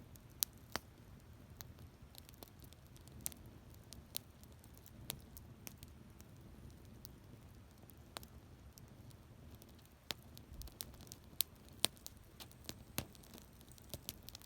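Wood campfire crackling: irregular sharp pops and snaps, several a second at times, over a faint low rumble of the burning fire.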